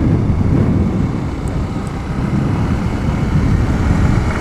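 Wind noise on the microphone while riding a 2015 Honda Grom, with the bike's 125cc single-cylinder engine running steadily underneath.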